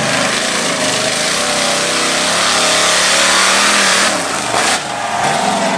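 High-powered off-road truck engine running hard under load, its pitch climbing slowly for about four seconds. It then backs off with a short blip of throttle and drops to a lower steady note.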